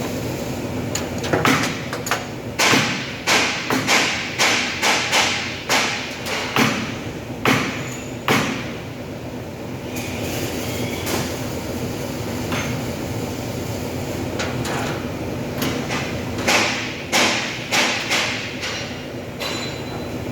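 Hammer striking metal in quick repeated blows, about fifteen in the first eight seconds, then a few more near the end, over a steady machine hum.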